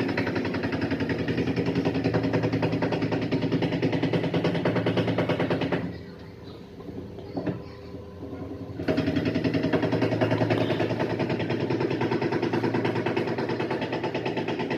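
LG washing machine running noisily in its spin cycle, a fast steady clatter over a hum that drops away for about three seconds in the middle and then comes back.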